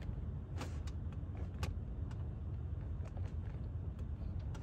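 Volvo XC90 3.2-litre straight-six idling, heard from inside the cabin as a steady low rumble, with a few light clicks scattered through it.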